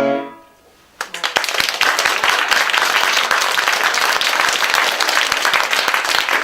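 The last chord of the waltz dies away. About a second in, an audience breaks into steady applause.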